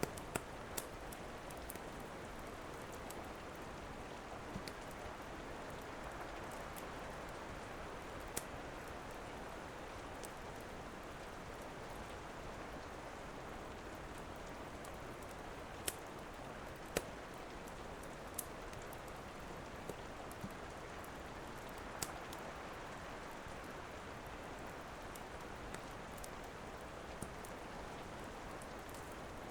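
Steady rain hiss with irregular sharp pops and snaps of a crackling wood fire, about a dozen scattered through.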